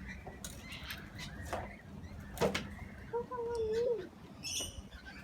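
Parrots fluttering and moving about while being hand-fed, with a sharp knock about halfway through and a single drawn-out, wavering call a little after.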